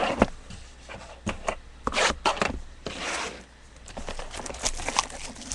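Trading-card packaging being handled and torn open: an irregular run of rustles, scrapes and short tearing sounds, with a few sharp clicks.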